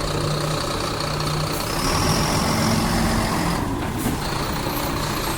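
Heavy truck engine running steadily, with a constant hiss that drops out briefly a little before the end.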